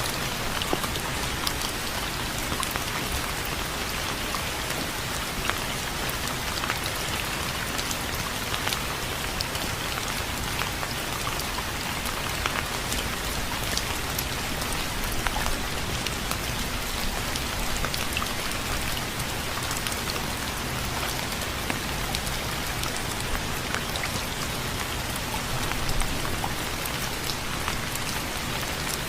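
Steady rain falling on a surface, an even hiss with many sharp individual drop ticks through it.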